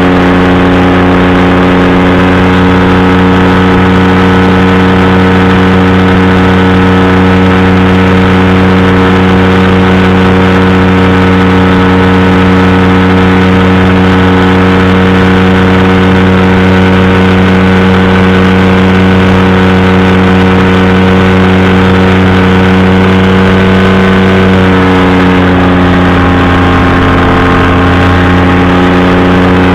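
Powered parachute engine and propeller running steadily and loud at a constant pitch, which dips slightly about 25 seconds in.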